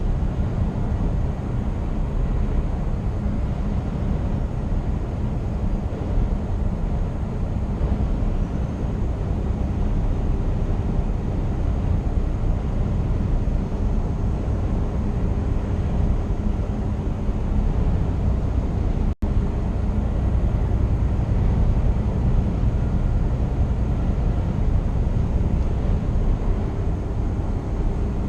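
Scania R490 truck's 13-litre inline-six diesel running under way, a steady low rumble of engine and road noise. There is a split-second dropout about two-thirds of the way through.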